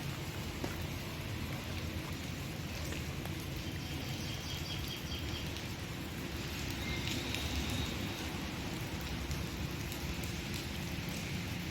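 Steady rain falling, a continuous hiss. A few faint, short high chirps come through between about four and eight seconds in.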